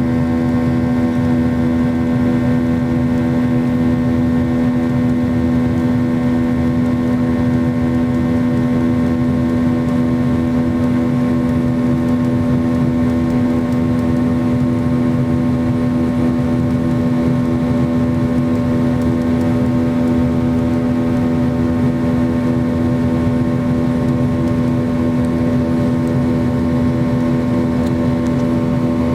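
Steady drone of a McDonnell Douglas MD-90 airliner's IAE V2500 jet engines heard from inside the cabin: a constant low hum with a steady tone over rushing noise, unchanging in pitch or level.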